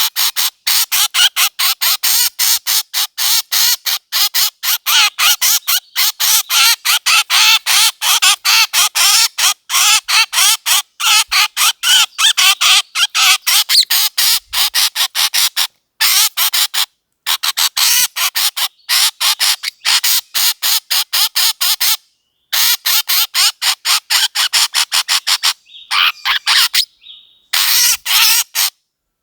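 Bird calls repeated rapidly, several short, sharp, high notes a second, in a long series broken by a few abrupt silent gaps. It is a recorded bird call played as a lure for hunting.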